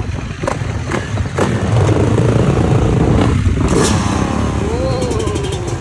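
A pack of motocross bikes accelerating hard off the start, engines revving at full throttle. Engine pitch glides up and then falls away as a bike shifts, near the end.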